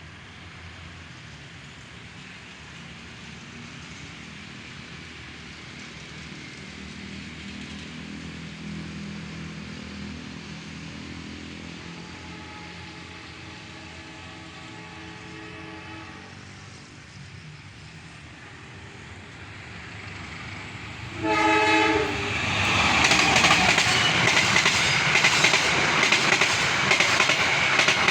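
CC203 diesel-electric locomotive approaching, its engine droning and growing louder, with a fainter horn sounding for a few seconds about halfway through. About three-quarters in comes a loud, short horn blast. The train then passes close with loud, rhythmic wheel clatter over the rail joints.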